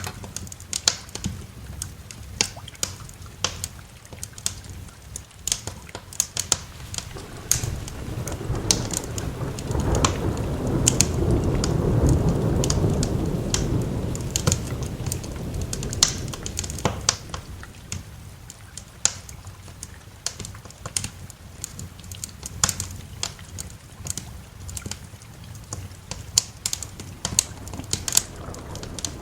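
Wood fire crackling with many sharp, irregular pops, while a long roll of thunder swells up about eight seconds in and fades away several seconds later.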